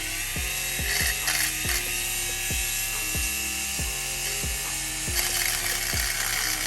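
Small high-speed rotary tool running with a steady high whine as it cuts into a stuck, shredded oil filter. Background music with a steady beat plays underneath.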